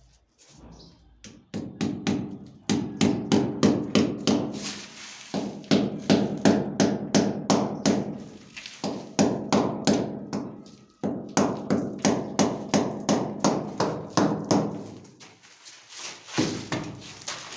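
Rapid repeated hammer strikes, about four a second, in several runs with short pauses between them. Each blow has a brief ringing tone.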